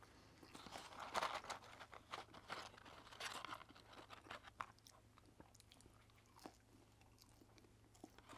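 Faint close-miked chewing of McDonald's French fries: soft mouth clicks and light crunches, busiest in the first half and thinning out after about five seconds.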